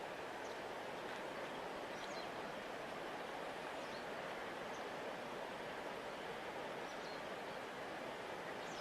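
A large river flowing past its bank with a steady, even rush of water. Faint short high chirps sound now and then over it.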